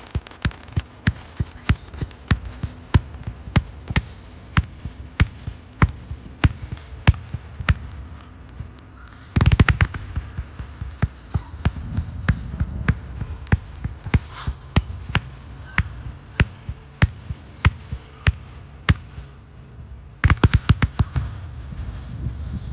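Fireworks going off in a steady run of sharp bangs, about two a second, with two dense rapid volleys of bangs: one about halfway through and one near the end.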